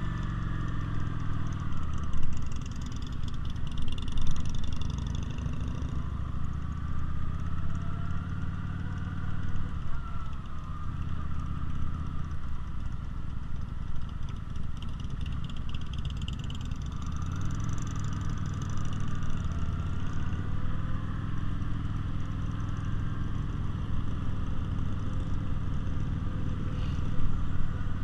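V-twin cruiser motorcycle engine running under way, its note rising and falling several times with throttle changes.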